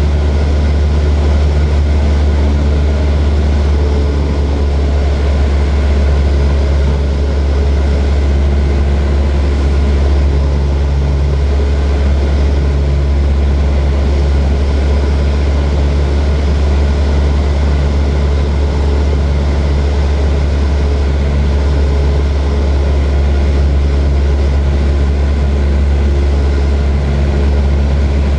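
Light propeller airplane's engine running steadily, a loud, even drone with no change in pitch.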